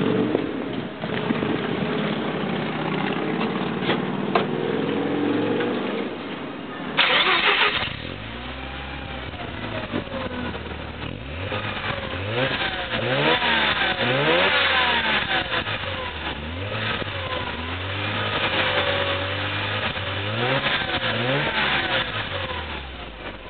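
Mazda FC3S RX-7 twin-rotor 13B rotary engine with a Fujitsubo Legalis R straight-tail aftermarket muffler, starting up and running at a raised idle, with a short loud rush of noise about seven seconds in. It then settles to a lower idle and is revved with repeated throttle blips, the pitch sweeping up and falling back. The exhaust note is fairly quiet for an aftermarket muffler.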